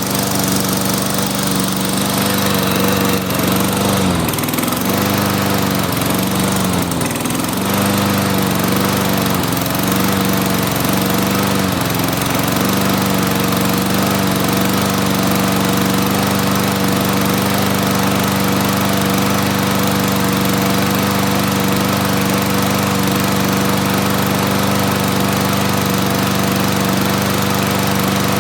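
Toro push mower's 6.5 hp Tecumseh single-cylinder engine running just after being pull-started, with a loud, steady note. For the first dozen seconds its speed dips briefly about once a second, then it settles into an even run.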